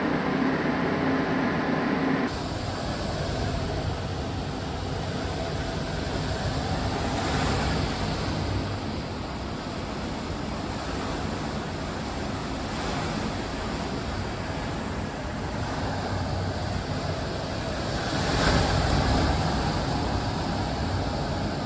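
A steady hum for about two seconds, then after a sudden cut a steady rush of wind noise. The rush swells louder around 7 seconds in and again near the end.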